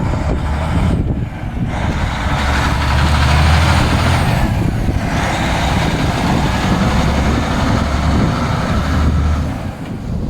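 Heavy diesel dump truck driving past, a low engine note under broad road and tyre noise that swells about two seconds in and fades near the end.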